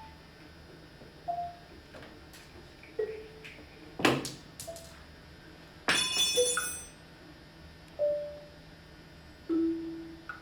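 Small percussion instruments played sparsely in a soundscape piece: single short pitched taps at different pitches every second or two, a sharp crack about four seconds in, and a bright ringing strike about six seconds in.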